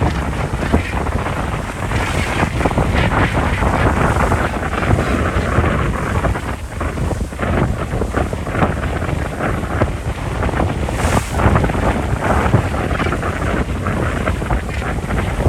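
Wind buffeting the microphone: a loud, rough rumble of noise, heaviest in the low end, with constant small gusts.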